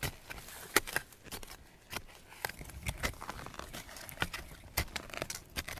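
Footsteps crunching through dry leaf litter and twigs: irregular sharp crackles and snaps, several a second.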